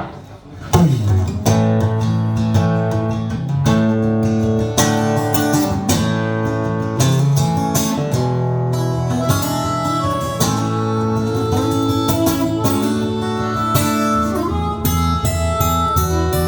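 Acoustic guitar strummed, the instrumental intro to a little country song, starting about a second in and then playing steadily.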